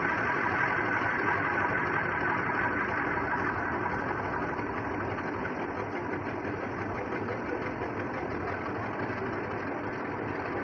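A machine running steadily with a dense mechanical clatter, easing slightly in level about four seconds in.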